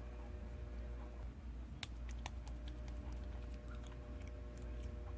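Slime being pressed and worked by hand, giving scattered small clicks and pops over a low steady hum.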